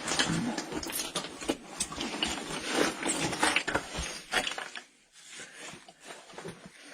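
Scraping, rubbing and knocking of a caver's clothing and gear against rock while squirming through a very tight crawl, an irregular run of scuffs and sharp clicks that dies down after about four and a half seconds.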